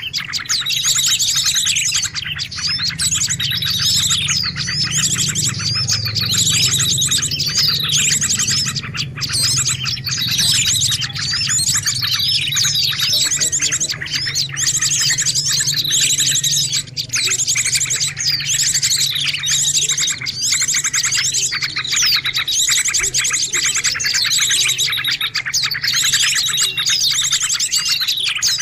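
A dense chorus of small birds chirping and twittering rapidly and without pause, many calls overlapping, with a low steady hum underneath. It is a bird-luring recording, used to draw wild birds in.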